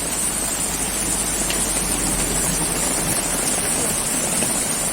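Heavy rain mixed with hail coming down hard, a steady, even hiss with a few sharper ticks of hailstones striking.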